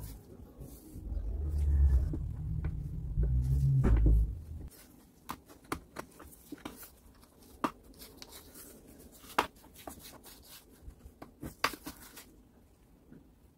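Workbench handling noise: a few seconds of low thuds and bumps, then a run of separate sharp clicks and taps as parts and tools are picked up and set down.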